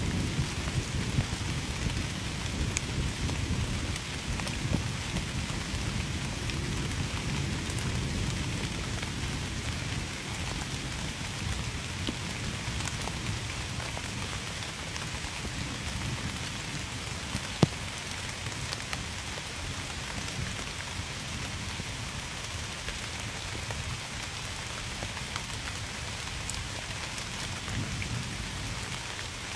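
Steady rain falling on a surface, with scattered individual drops ticking, and a low thunder rumble that fades away over the first several seconds. A single sharp drip or click stands out about halfway through.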